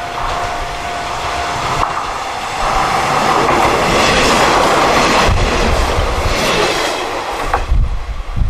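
A pair of old-type diesel railcars, running coupled together, passing by. The train noise builds about three seconds in, with wheels clicking over the rail joints, and a deep engine rumble follows in the last few seconds.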